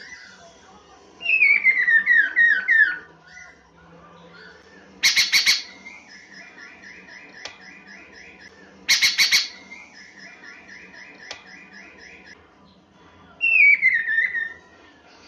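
Chinese hwamei (poksay mandarin) singing: series of quick, loud, downward-sliding whistled notes, twice broken by a short harsh rasping burst, each followed by a softer fast, even trill.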